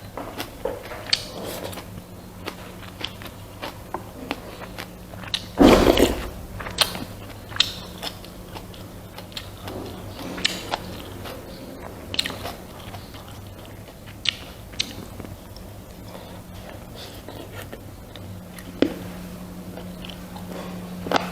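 Close-up eating sounds of rice and pork soup: chewing and biting with scattered small clicks, and one louder noisy burst about six seconds in, over a steady low hum.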